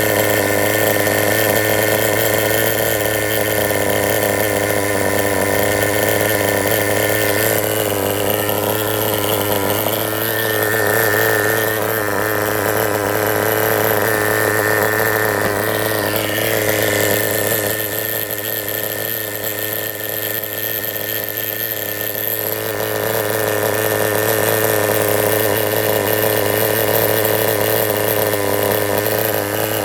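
RT4-GP engine running steadily at idle, its exhaust note heard just after the engine has been set up; it drops slightly in loudness for a few seconds past the middle, then returns.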